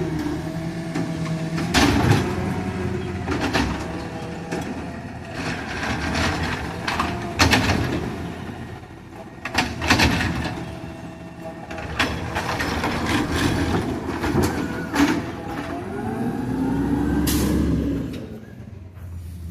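Recycling truck working at the curb: its engine runs steadily under a string of sharp bangs and clatters from the packing gear. About three quarters of the way through, a hydraulic whine rises and falls.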